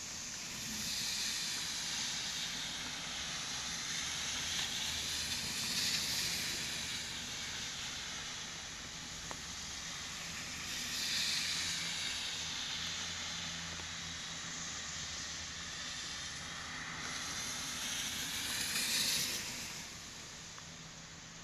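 Rain falling, a steady rushing hiss that swells and eases about four times.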